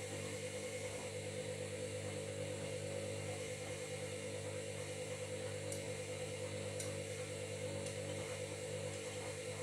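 Washing machine running with a steady motor hum and whir. It holds one even pitch and level throughout, with a few faint ticks partway through.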